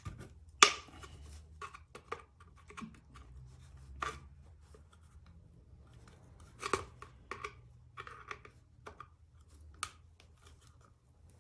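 Scattered sharp clicks and light knocks, the loudest about half a second in, as the small plastic and metal parts of a car door lock are handled and fitted back together.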